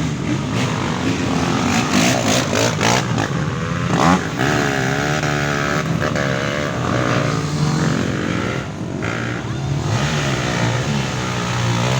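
Off-road trail motorcycles revving hard in mud, engine pitch swinging up and down again and again as the riders work the throttle, with more than one engine heard at once.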